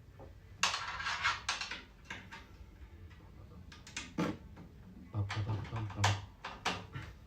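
Irregular clicks, scrapes and knocks of hard parts being handled while working on a washing machine: a cluster of clatter early on, a single knock near the middle, then more clicking with a few dull thuds near the end.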